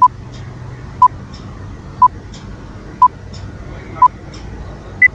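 Quiz countdown timer beeping once a second: five short beeps at one pitch, then a single higher beep about five seconds in that marks the end of the countdown. A faint tick follows each beep.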